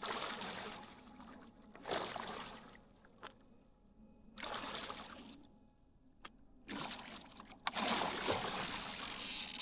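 Water splashing and sloshing in several bursts of a second or more, as a hooked white sturgeon thrashes at the surface.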